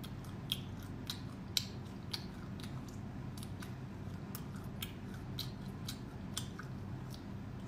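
Crisp crunching clicks from biting and chewing oil-dressed fried insect larvae, roughly two a second and unevenly spaced, over a low steady hum.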